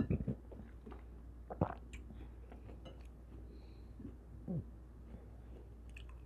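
A person chewing fruit with the mouth closed, loudest at the start, with a sharp click about a second and a half in and a few softer mouth sounds later.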